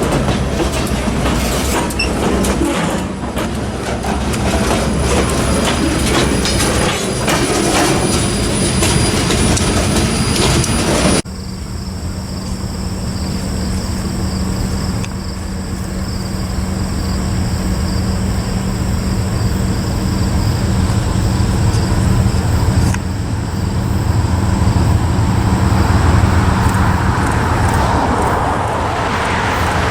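Freight train passing close by, its wheels clattering over the rail joints. After an abrupt cut about a third of the way in comes a steadier diesel locomotive sound with a low hum.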